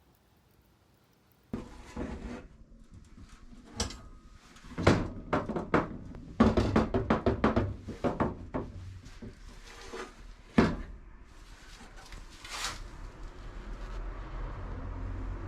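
A series of knocks and thunks, with a quick rattling clatter in the middle, as objects are handled and set down; a low rumble rises near the end.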